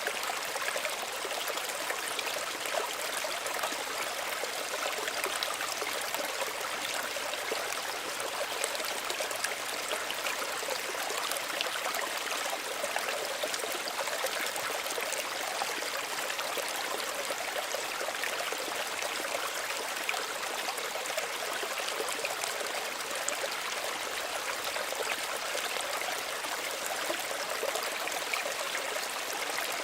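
Small stream running, a steady trickling and babbling of water over stones, even in level throughout.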